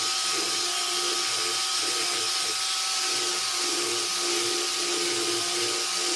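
A power tool running steadily, with an even hiss and a held whine.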